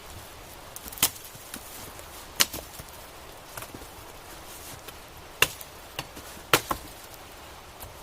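Wood being chopped: four loud, sharp chopping blows at uneven intervals, a second or more apart, with a few lighter knocks between them.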